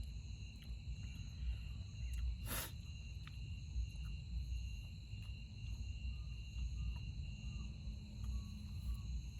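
Night insects, crickets, chirring steadily in a continuous high chorus with a pulsing trill, over a low rumble. One sharp click comes about two and a half seconds in.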